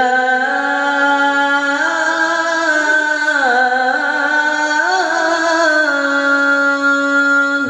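A Quran reciter's voice sustaining one long, ornamented melismatic phrase of tilawah recitation, the pitch stepping up and down through a run of turns in the middle and then settling on a held note that breaks off near the end.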